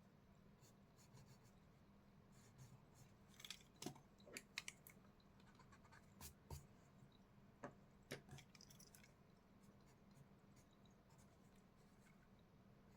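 Faint scratching strokes of a drawing tool sketching on paper, a cluster of short scratches and taps in the middle, over a low steady hum.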